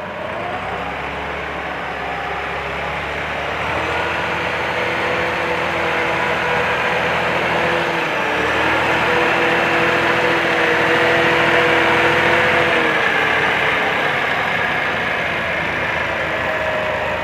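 Massey Ferguson tractor's diesel engine running hard at high, steady revs. It revs up in the first second, dips briefly about halfway, and its pitch drops about three-quarters of the way through.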